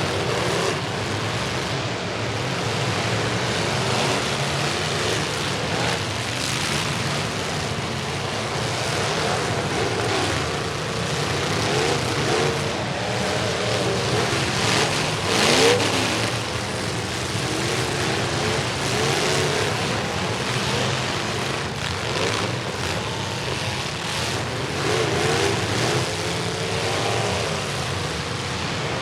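Several demolition derby truck engines running and revving at once, their pitches rising and falling as they race and reverse, with a louder moment about halfway through.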